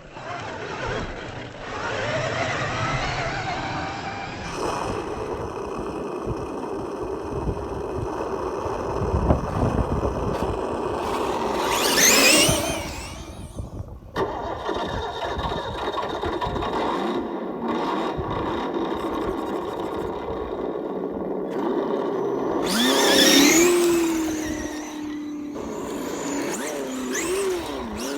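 Radio-controlled Traxxas E-Revo trucks running with electronic V8 sound modules giving a simulated engine burble, and the brushless motor's whine rising sharply in two bursts of acceleration, about twelve and twenty-three seconds in. The sound changes abruptly a few times.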